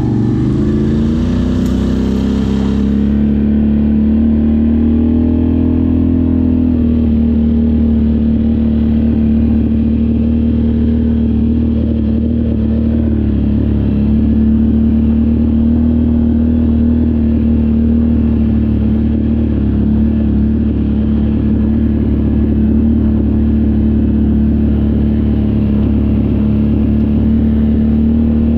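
Off-road vehicle engine running under way. Its pitch climbs over the first few seconds, then it holds a steady drone.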